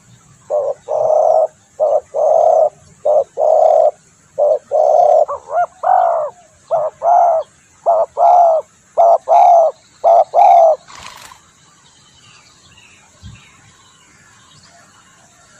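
Spotted dove (tekukur) cooing: about a dozen loud, low hooting notes, mostly in short-then-long pairs, which stop after about ten seconds. Faint chirps of small birds follow near the end.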